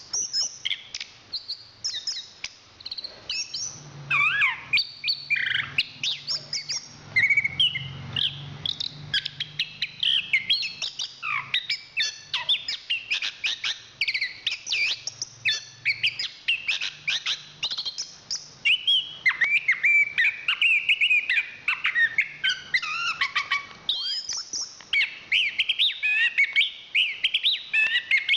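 Chestnut-capped thrush (anis kembang) singing a long, unbroken run of fast, varied chirps and whistles.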